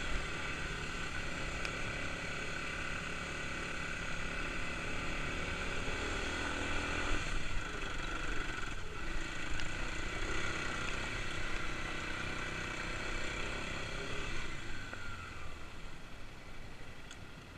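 Kawasaki KLX250 dirt bike's single-cylinder four-stroke engine running while the bike is ridden. The engine note changes about seven seconds in and eases off, getting quieter, near the end.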